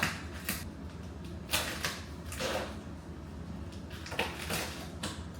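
Thin protective plastic film being peeled off a new refrigerator's surface, crackling and rustling in a string of short bursts.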